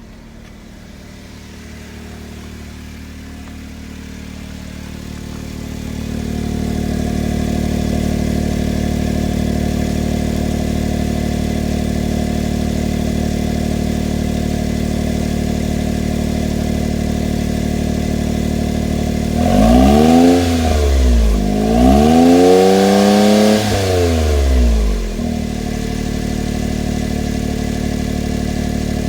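Honda S660's turbocharged three-cylinder engine idling through an HKS Hyper SPEC-L II aftermarket exhaust during a sub-zero cold-weather warm-up, growing louder over the first several seconds. About twenty seconds in it is revved twice, the pitch climbing and falling each time, and then it drops back to a steady idle.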